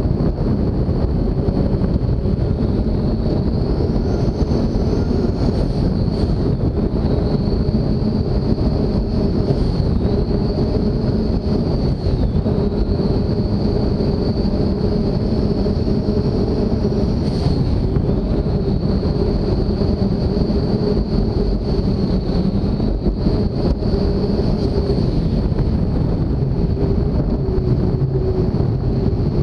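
44-foot MTI race boat running steadily at speed, its engines droning under heavy wind noise on the microphone, with a thin high whine that wavers slightly in pitch.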